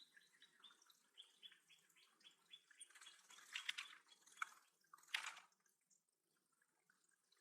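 A songbird singing a series of short repeated notes, about four a second, for the first couple of seconds, followed by a few brief louder noisy bursts in the middle.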